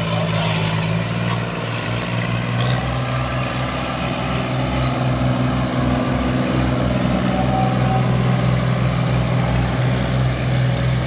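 Tractor diesel engine running steadily under load, pulling a loaded sugarcane trolley.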